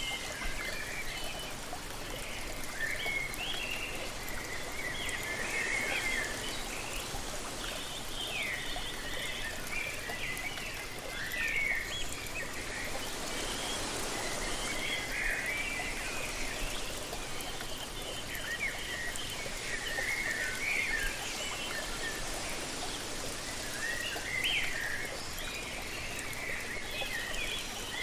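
Steady rush of falling water from a waterfall, with songbirds chirping and singing over it in short, frequent phrases.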